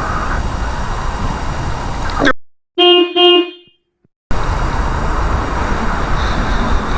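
Steady outdoor rumble and hiss that cuts off abruptly into dead silence, in which a horn gives two short beeps of the same pitch; then the outdoor noise comes back suddenly.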